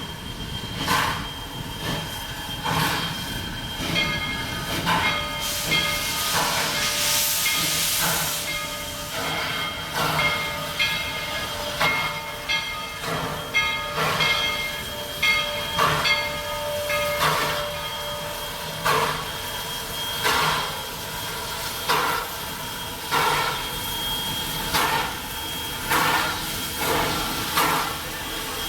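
Two steam locomotives chuffing slowly and heavily, working hard to pull a heavy string of cars: one exhaust beat about every second. A loud burst of steam hiss comes about a quarter of the way in.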